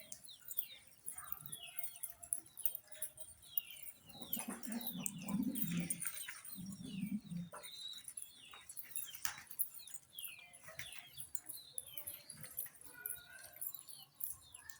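Pigeon squabs squeaking to be fed, many short high peeps falling in pitch, with low cooing from an adult pigeon twice near the middle.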